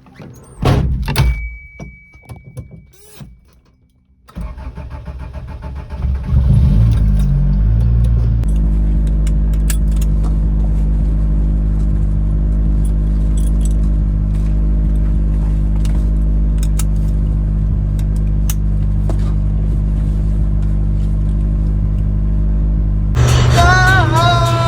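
Keys jangle, with clicks and a held electronic tone, then a Honda car's engine cranks and starts about four seconds in and settles into a steady idle. Music with singing starts over the idle near the end.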